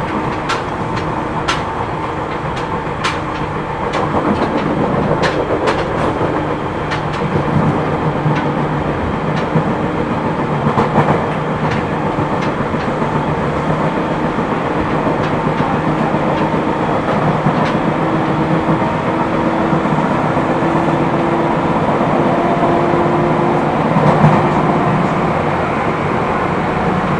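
Seibu New 2000 series commuter train running, heard from inside the car: the wheels click over rail joints, more often in the first half, under a steady running rumble. From about the middle, the traction motor hum slowly rises in pitch as the train picks up speed. The car has flat spots on its wheels, which add a flat-wheel noise.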